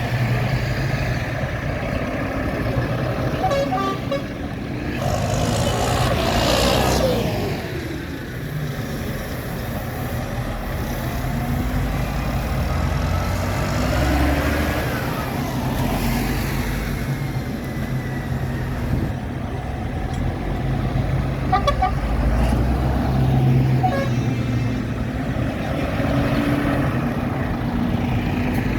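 Tractor engines running steadily as a road convoy of tractors and other vehicles goes by, with a vehicle horn tooting a few times.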